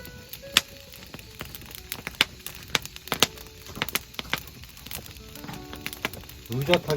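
Wood fire crackling, with many sharp, irregular snaps and pops. Faint steady musical tones sound underneath, and a man's voice comes in near the end.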